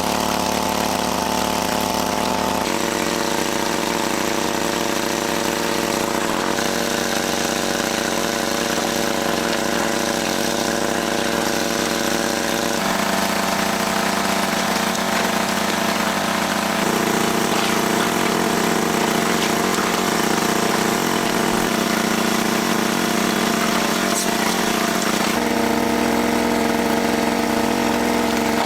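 A small engine running steadily with a constant hum, its pitch jumping abruptly to a new steady note several times.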